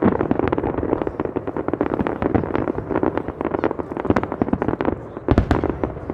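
Fireworks going off: a dense, rapid crackle of many small reports, with a few louder bangs about five seconds in.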